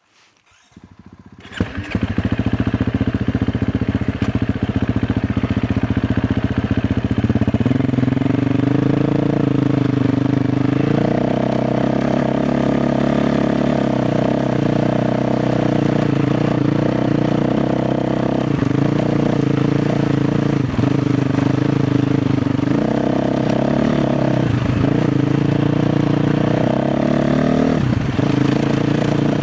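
KTM 350 XCF's single-cylinder four-stroke engine catching and starting about a second and a half in, then running at low revs, its pitch stepping up and down a few times.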